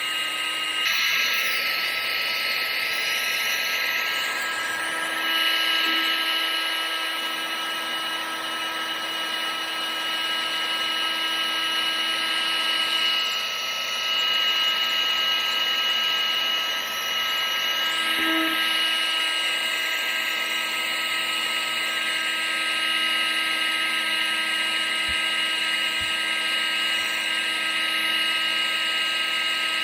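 Electric fan motor of a household appliance running steadily, used as white noise: a constant whine of several steady tones over a continuous rush of air, its hiss shifting slightly a few times.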